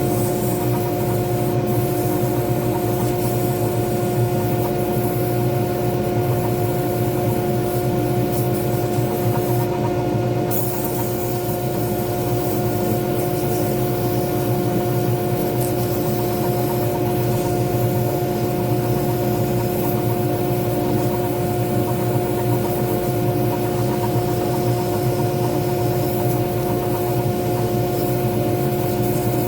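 Lathe motor running steadily with a constant hum, over a continuous rubbing noise from the spinning pen blank being worked.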